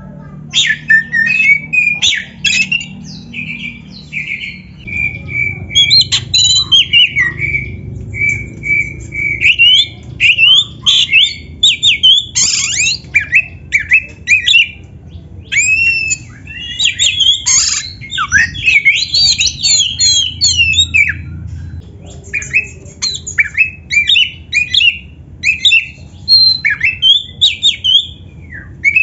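Oriental magpie-robin (kacer) singing a long, varied song of clear whistles and rapid chattering phrases, broken by a few short pauses.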